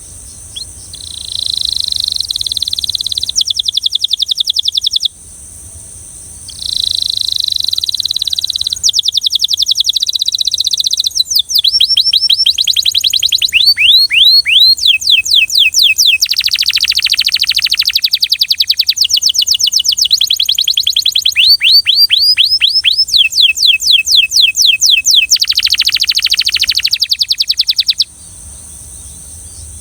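Belgian canary singing a long song of fast rolling trills and rapidly repeated notes, with runs of quick sweeping notes in the middle. It pauses briefly about five seconds in and stops shortly before the end.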